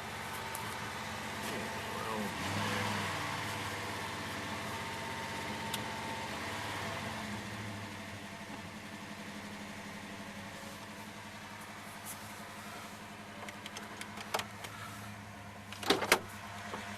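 1992 Dodge Dakota's engine running on wood gas at low speed, its note shifting a little as the truck is manoeuvred and then settling to a steady idle. A few sharp knocks near the end.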